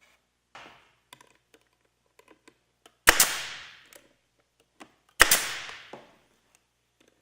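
Pneumatic air stapler fired twice, about two seconds apart, driving staples to join the two cedar roof boards. Each shot is a sharp crack that trails off over most of a second, with light handling clicks between.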